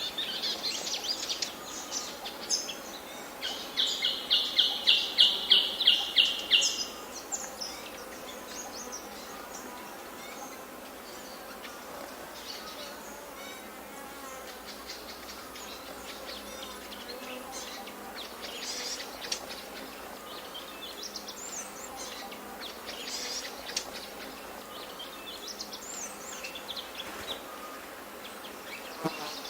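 Forest birds singing and calling, with scattered high calls over a faint steady background. A few seconds in comes a loud, rapid run of repeated high notes, about four a second, lasting some three seconds.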